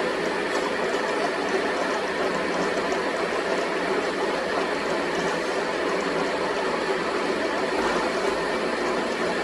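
A machine running steadily with an even mechanical noise and no breaks.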